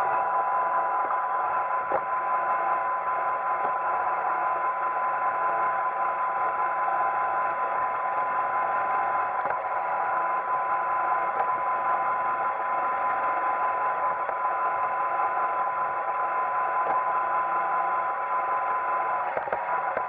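iRobot Roomba 880 robot vacuum running: a steady motor whine with one held tone over the whir of its brushes and vacuum fan, with a couple of faint clicks.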